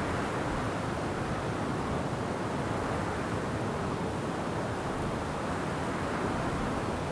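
Wind blowing steadily through forest trees, an even rushing noise with no gusts or breaks.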